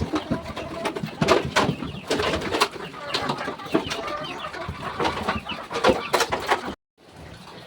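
Chickens clucking amid sharp knocks and clatter, cutting off suddenly near the end.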